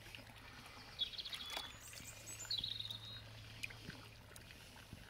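A small bird chirps twice in short, rapid trills, about a second in and again at two and a half seconds, over light splashing of water as a hand scoops a small carp out of a bucket.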